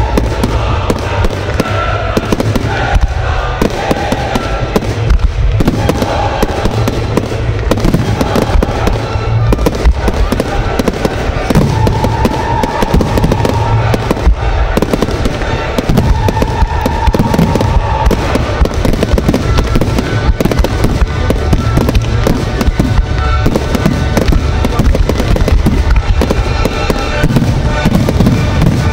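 Fireworks display going off continuously: a dense run of bangs and crackling from aerial shells, with music playing underneath.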